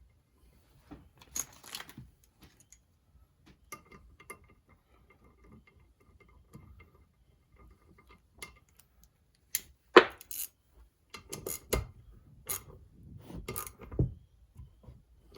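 Metal hand tools clicking and clinking against engine parts while a plate is bolted down and tightened. Scattered small clicks come first, then a run of sharper metallic clicks and knocks in the second half, the loudest about ten seconds in.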